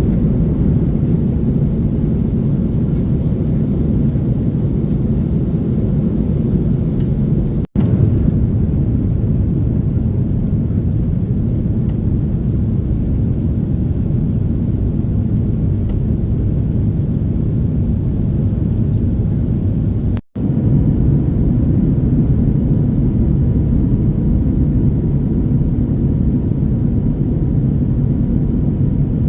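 Steady low rumble inside the cabin of an Airbus A330-300 airliner during descent: engine and airflow noise heard from a seat just behind the wing. The sound cuts out abruptly for an instant twice, about eight and twenty seconds in.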